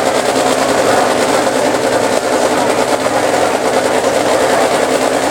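Motorcycle engine running at steady revs, holding one even pitch without revving up or down.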